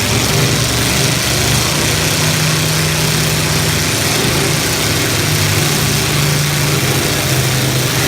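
Engines of full-size demolition derby cars running and revving, a steady loud engine drone with shifting pitch.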